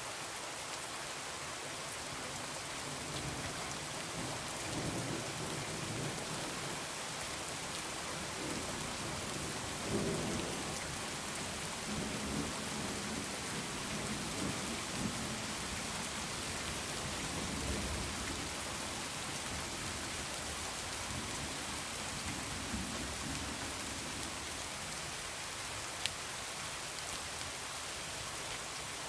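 Heavy rain falling steadily, with thunder rumbling low in several rolls through the middle, and a single sharp click near the end.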